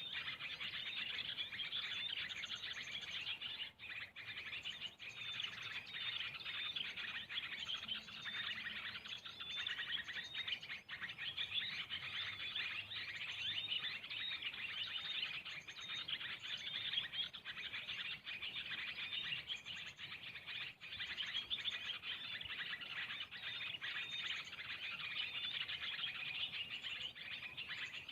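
Dense, unbroken chirping and twittering of small birds, many short calls overlapping without a pause.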